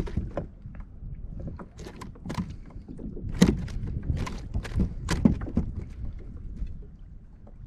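Scattered knocks and clatter on a kayak as a just-netted speckled trout and the gear are handled aboard, the loudest about three and a half and five seconds in, over a low rumble.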